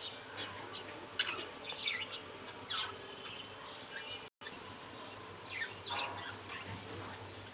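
Five-day-old budgerigar chick peeping: short, high, thin squeaks and falling cheeps at irregular intervals, with the sound cutting out for an instant a little past halfway.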